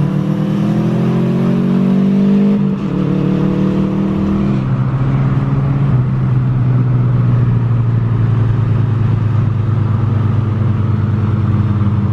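Subaru Impreza 2.5 RS's 2.5-litre flat-four with the muffler deleted, accelerating with rising pitch, a brief break for a gear change about three seconds in, then climbing again before settling into a steady drone from about five seconds on.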